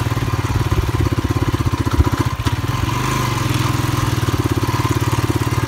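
Motorcycle engine running steadily while riding, its firing pulses rapid and even, with a brief knock about two seconds in.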